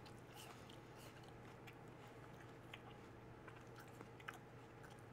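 Faint chewing of a mouthful of Granny Smith apple: scattered small crunches and wet mouth clicks over a low steady hum.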